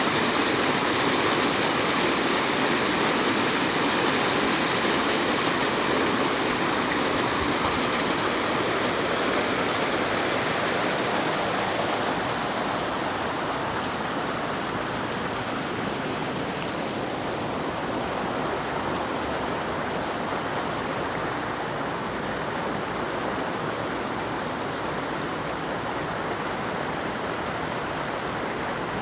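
Steady rush of flowing water, like a stream or small waterfall, easing slightly about halfway through.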